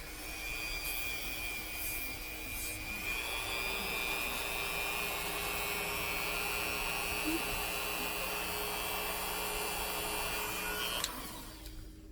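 Small rotary nail grinder running steadily with a high whine as it files a parrot's toenails, cutting off suddenly about eleven seconds in; the nail is ground far enough to graze the quick.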